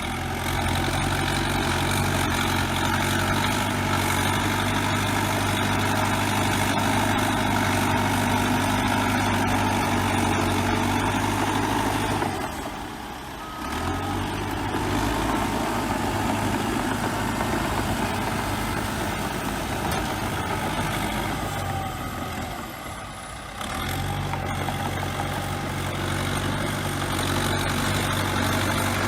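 Heavy diesel engine of a bulldozer running steadily under work. The sound drops away briefly twice, about twelve and twenty-three seconds in, and then resumes.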